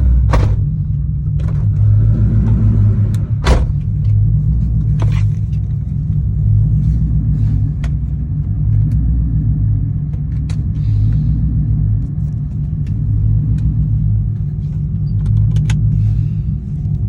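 2004 Ford Mustang GT's 4.6-litre V8 running through BBK shorty headers, a BBK off-road X-pipe and a Magnaflow cat-back exhaust, a steady low rumble while driving at fairly even revs, heard from inside the car. A few sharp clicks come in the first few seconds.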